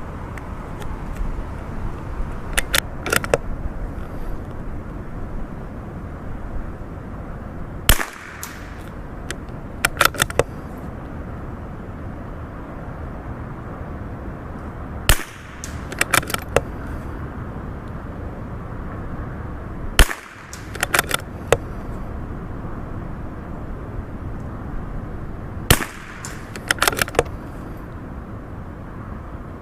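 Four shots from a CZ457 bolt-action .22LR rifle, several seconds apart, each followed by a short run of metallic clicks as the bolt is worked for the next round. Strong wind buffets the microphone underneath.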